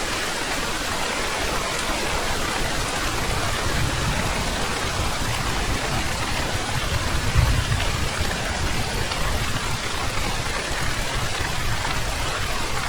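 Heavy rain falling steadily, with low rumbles of thunder swelling a few times, the strongest a little past halfway.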